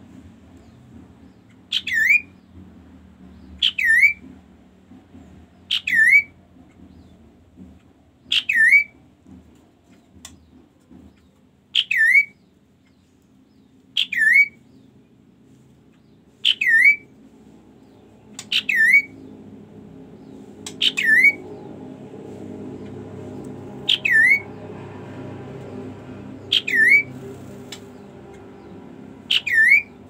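Caged kaso-kaso bird in full voice, calling over and over: one short, sharp note about every two seconds, each dropping steeply in pitch and then flicking back up. A low background rumble grows louder about halfway through.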